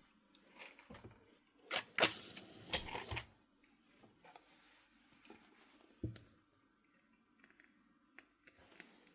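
Household handling noises: a quick cluster of sharp clicks and knocks about two seconds in, then a single knock about six seconds in.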